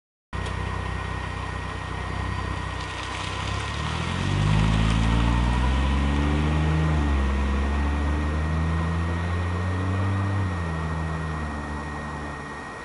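2009 Mazda 6's 3.7L V6 through Borla Pro XS mufflers with the rear resonator deleted, idling, then revved up about four seconds in and held at raised revs. The revs ease briefly, are held again, and drop back toward idle near the end.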